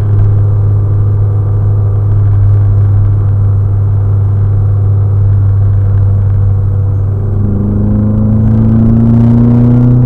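Low, steady in-cabin drone of a 2008 Chevrolet Cobalt being driven. From about seven seconds in, a rising note joins it as the engine picks up revs.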